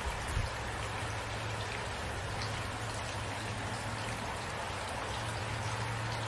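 Steady rain falling, an even hiss with individual drops pattering, over a low steady hum, with a soft low thump about half a second in.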